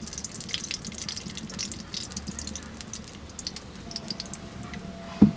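Light, irregular crackling and popping, with one dull knock near the end.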